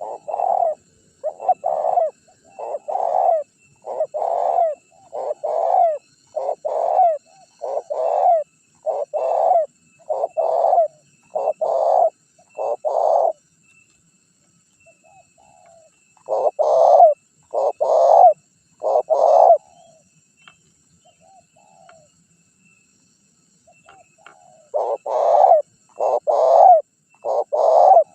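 Spotted dove (tekukur) cooing over and over, each coo under a second long and about one a second. A long run of about a dozen calls is followed by a pause of a few seconds, then a short run of four, another pause, and a further run near the end. It is a vigorous lure call used to draw wild spotted doves into calling.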